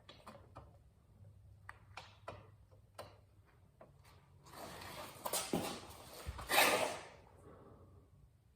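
Workshop handling noise during motorcycle rear-wheel reassembly: scattered light clicks and knocks of parts and tools, then a longer scraping rustle about halfway through, loudest near the end of it.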